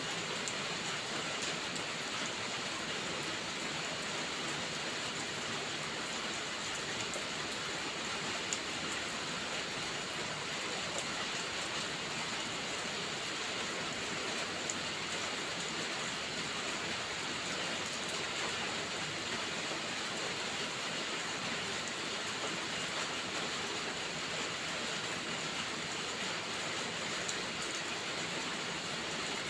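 Steady heavy rain hissing, with a few faint sharp crackles from a wood fire, one a little louder about eight seconds in.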